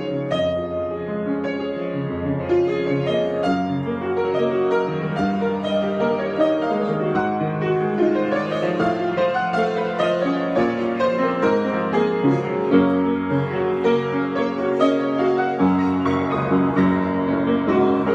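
Solo piano improvisation: many notes flowing continuously, chords and melody together.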